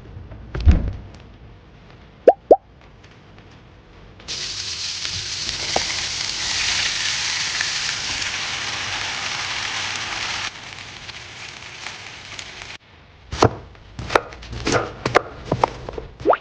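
Kitchen cooking sounds: a thump and two light clicks, then a steady hiss lasting about six seconds that cuts off abruptly, then a quick run of sharp knocks and clicks.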